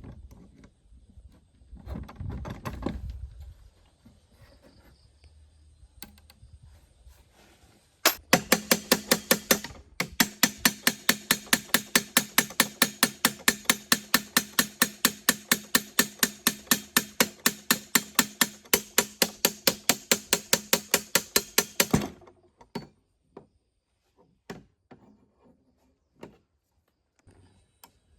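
Rapid, evenly spaced hammer blows on a ringing metal part, about four a second, starting abruptly about eight seconds in and stopping suddenly some fourteen seconds later. A few separate knocks follow.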